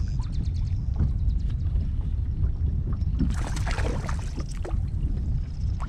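Water splashing and sloshing beside a kayak for about a second and a half, starting about three seconds in, over a steady low rumble of wind on the microphone.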